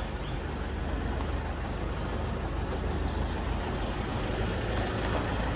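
Steady low rumble of a motor vehicle with its engine running.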